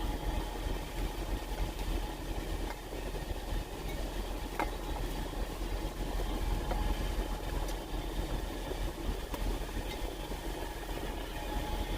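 Idling truck engine heard from inside the cab: a steady low rumble, with a few faint clicks over it.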